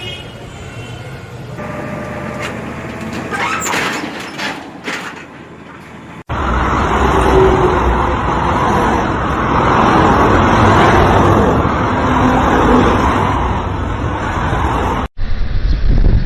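Vehicle and road noise from dashcam footage, changing abruptly twice at edit cuts. The middle stretch is the loudest: a dense, steady rush of noise.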